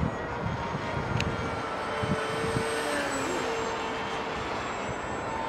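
Radio-controlled model seaplane flying, its motor and propeller giving a steady whine whose pitch drifts a little. Gusts of wind rumble on the microphone during the first couple of seconds.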